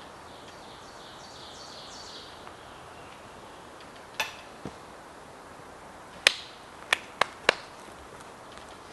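A series of sharp, short clacks: one about four seconds in, then four in quick succession a little over a second long near the end, over a quiet background with faint high chirps early on.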